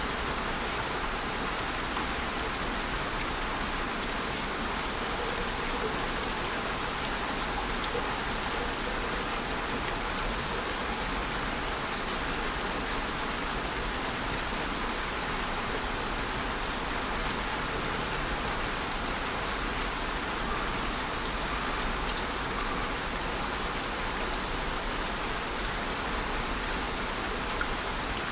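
Steady rainfall, an even hiss of rain with many small drops pattering on surfaces, unchanging throughout.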